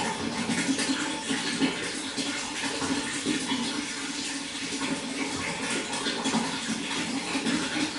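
Steady running water, an unbroken splashing rush with small constant flickers and no pauses.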